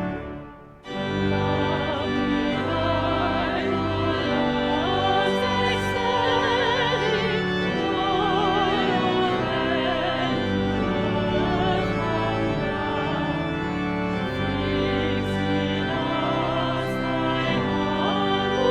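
Church organ music with singing: the organ breaks off at the start, then organ and voices come in about a second later, the singing with a marked vibrato over sustained organ chords.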